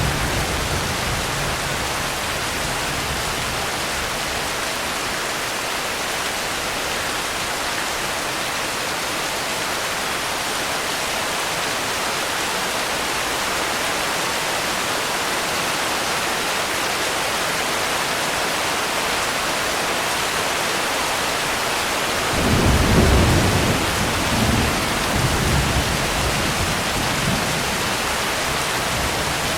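Steady heavy rain hissing. About three quarters of the way in, a low thunder rumble rolls in and swells and fades in waves for several seconds.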